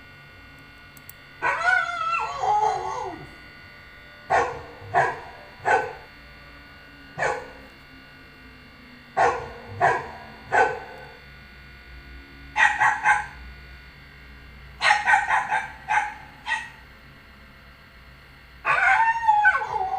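A dog barking in short bursts, singly and in quick groups, with two longer calls that fall in pitch, one about a second and a half in and one near the end.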